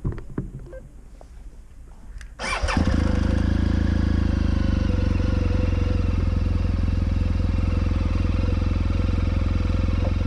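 BMW R1200 GS motorcycle's boxer-twin engine: after a couple of seconds of light clicks and knocks, it comes in suddenly about two seconds in and then runs steadily and loudly.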